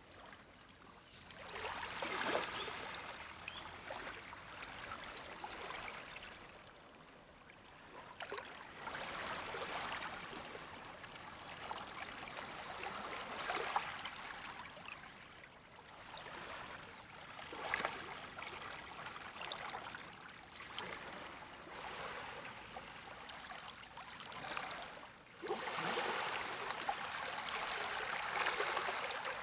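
Gentle waves of a calm sea washing up on a beach and drawing back, each wash swelling and fading every several seconds, with a louder wash near the end.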